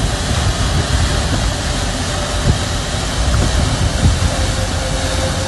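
Floodwater cascading down rocky mountain falls: a loud, steady rushing noise with a deep rumble underneath.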